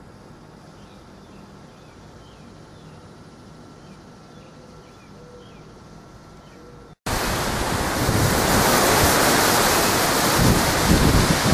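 Quiet outdoor ambience with faint chirps and a thin steady tone. About seven seconds in it switches abruptly to the loud, steady rush of a thunderstorm's heavy rain and wind, with wind gusts hitting the microphone near the end.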